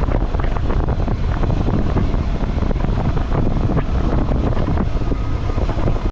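Wind buffeting the microphone on a moving motorcycle over a rough trail, with a deep steady rumble and scattered knocks throughout. It cuts off suddenly at the end.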